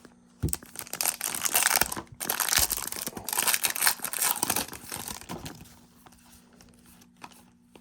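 Foil wrapper of a trading card pack being torn open and crinkled in the hands, in irregular crackling bursts that die down after about five seconds.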